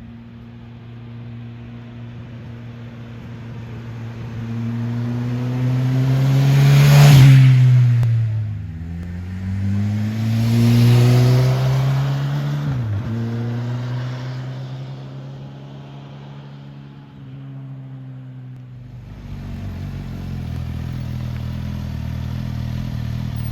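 Suzuki GSX-S1000 inline-four motorcycle engine accelerating hard. Its note rises to a peak, drops sharply at an upshift, climbs again to a second shift, then eases off to a steadier running note in the last few seconds.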